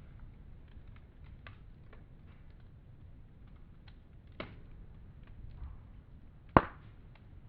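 Campfire crackling: scattered small snaps, with a louder pop about four seconds in and the loudest, sharp pop near the end.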